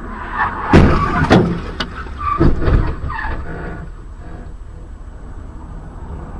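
Steady vehicle road and engine noise, broken by two loud bangs, one about a second in and another about two and a half seconds in, with brief squealing around them.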